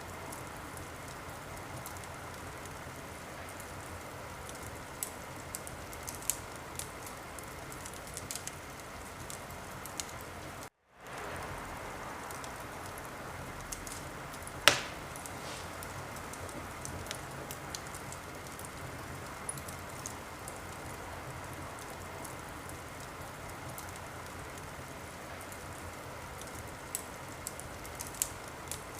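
Wood fire burning in a fireplace: a steady hiss with scattered crackles and pops, one pop much louder than the rest a little past the middle. The sound drops out completely for a moment just before it.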